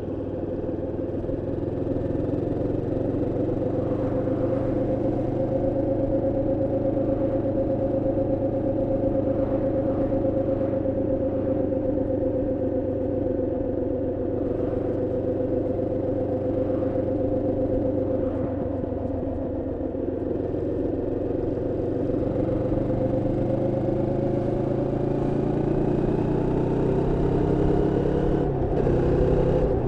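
Moto Morini X-Cape 650's parallel-twin engine running steadily under way on a new bike still being run in. Its pitch eases off briefly just past the middle, then rises steadily near the end as it accelerates.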